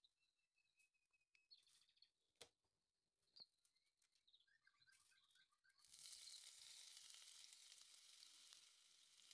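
Sliced onions going into hot cooking oil in a pan and sizzling, a steady hiss that starts suddenly about six seconds in. Before that there are only a few faint clicks and chirps.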